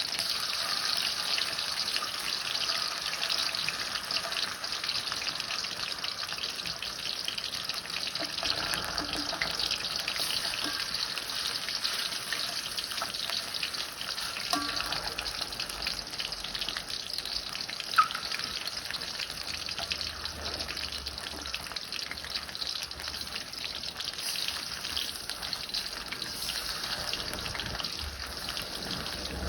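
Chicken skin frying in hot oil: a steady crackling sizzle with a dense spatter of small pops, and one sharp click about eighteen seconds in.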